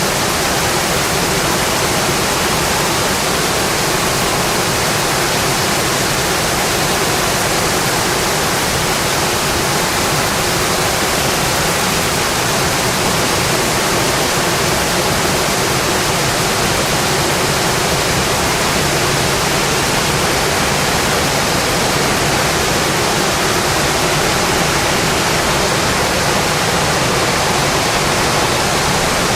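Heavy rain falling steadily on a metal roof, a dense, even hiss with no breaks.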